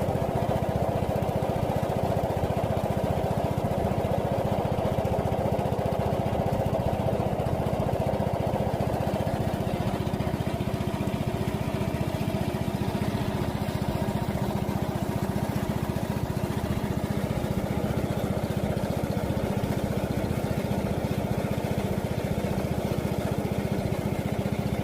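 Small engine running steadily at an even speed, with no change in pitch.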